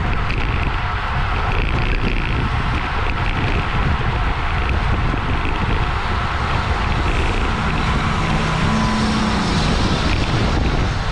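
Wind buffeting the camera microphone of a road bike racing at speed in a criterium pack, a steady loud rush.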